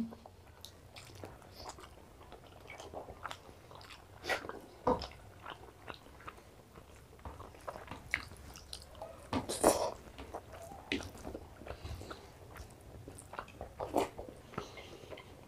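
Chewing and mouth smacks over mouthfuls of rice and mutton curry eaten by hand: irregular short clicks, loudest about two-thirds of the way through.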